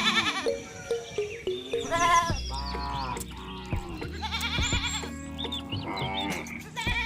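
Farm animals bleating several times in quavering calls, over background music of short stepped notes.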